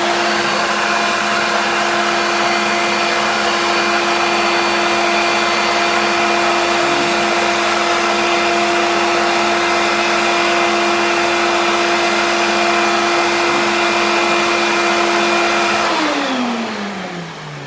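Hoover upright vacuum cleaner running steadily with a constant motor hum, then shut off near the end, its motor winding down in a falling pitch.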